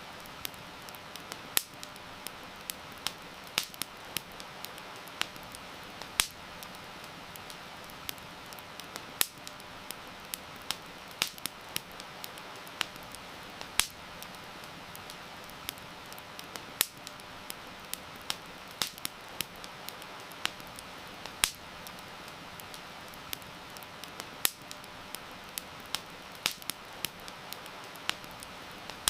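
Wood fire crackling with frequent, irregular sharp pops over a steady hiss of heavy rain.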